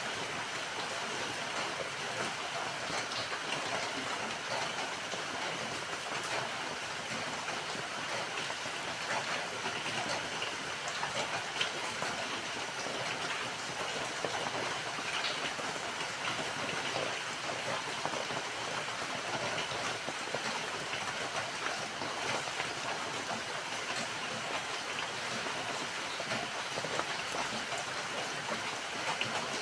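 Steady rainfall, many fine drops pattering on surfaces with no let-up.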